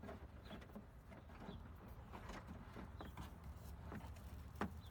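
Electrical cables being fed and pulled through a van's interior plastic trim: irregular rubbing, scraping and small clicks, with one sharper click near the end over a steady low hum.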